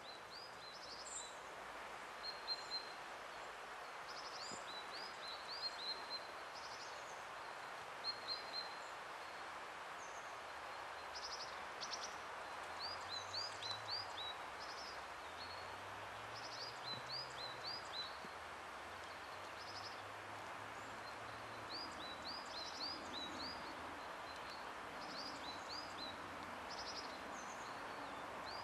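Small birds calling in woodland: scattered short, high chirps, often in quick runs of two or three, over a steady background hiss.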